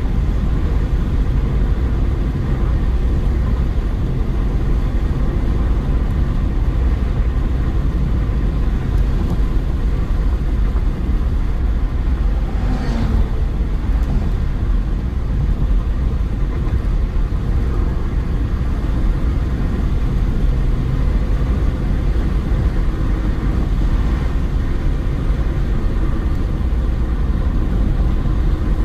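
A car driving along a road: steady low engine and tyre rumble. About thirteen seconds in, a brief higher sound rises and fades over it, like something passing.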